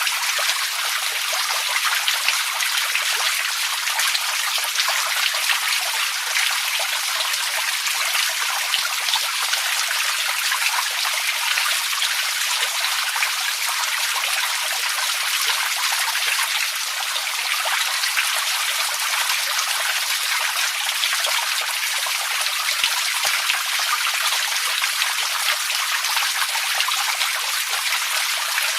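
Water trickling and splashing steadily, a constant rush with many small drop-like ticks through it.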